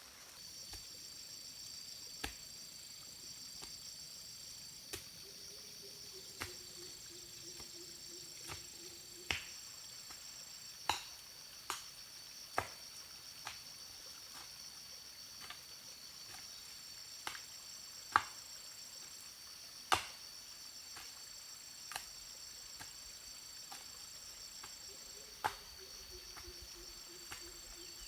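Crickets or similar insects trilling steadily in a high pitch, with a second insect buzzing on and off above them. Irregular sharp clicks or knocks sound here and there, about twenty in all. A low hum comes in twice for a few seconds.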